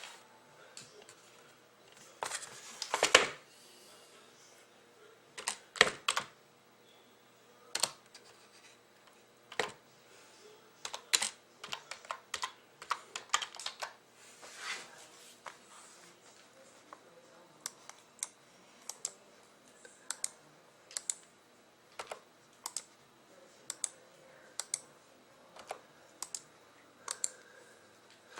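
Computer keyboard being typed on slowly: single keystrokes and short runs of clicks, with pauses in between.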